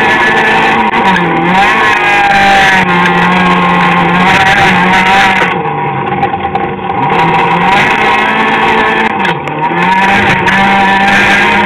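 Citroën AX rally car's engine, heard from inside the cabin, running hard at high revs while racing on a dirt autocross track. Its note dips briefly about a second in, near three seconds and again around nine seconds.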